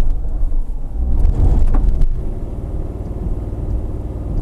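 2016 Subaru Forester's 2.5-litre boxer four with CVT pulling under throttle as the car reverses up a steep gravel slope, a low rumble with a steady engine drone settling in through the second half. The engine is being held back rather than given full power, which the driver puts down to the CVT and traction control cutting power on the climb.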